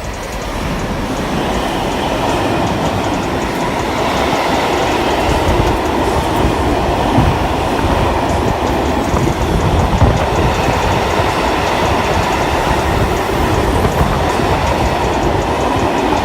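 A train passing close by, its wheels running loudly on the rails with some clickety-clack. The sound builds over the first two seconds and then holds steady.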